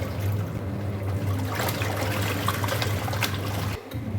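A washer-only (single-tub) washing machine rinsing clothes: its motor hums steadily while water sloshes in the tub. The motor briefly drops out near the end, then picks up again.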